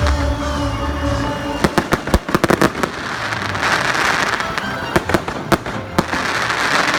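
Fireworks display: clusters of sharp shell bursts, a quick run of bangs about a second and a half in and more around five seconds in, with crackling in between.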